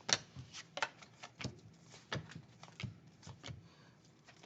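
Bowman baseball cards being handled and flipped one after another, a string of light flicks roughly every half second or so.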